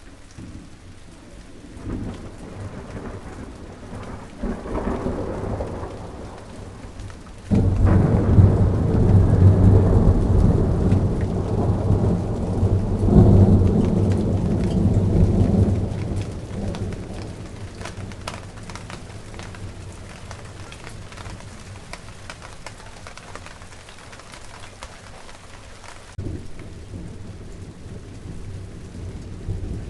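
Steady rain falling, with rolling thunder: a deep rumble builds early on, breaks loudly about seven seconds in and rumbles for several seconds before dying away, and a lighter rumble comes in near the end.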